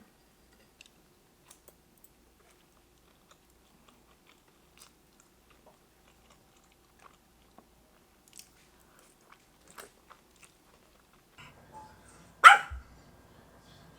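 Faint scattered crunching and clicks, then a dog barks once, loud and sharp, near the end.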